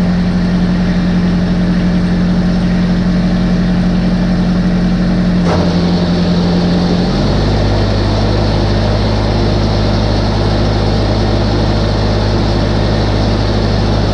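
Diesel tractor engine running steadily. There is a click about five and a half seconds in, and around seven seconds its note changes to a lower, deeper tone.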